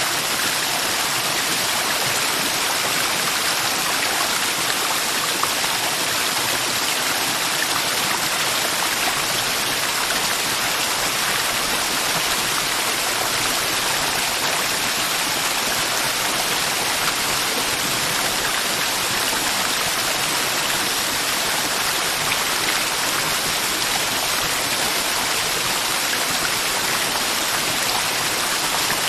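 Mountain river flowing, a steady, unbroken rush of water over rocks.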